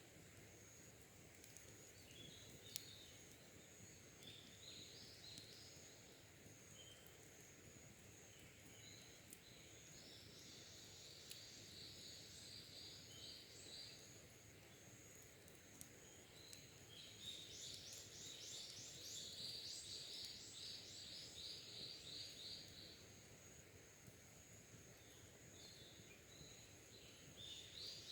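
Wild birds singing faintly in quick trilled phrases, the longest runs about ten seconds in and again from about seventeen seconds, over a steady high-pitched whine, with a single sharp click near the start.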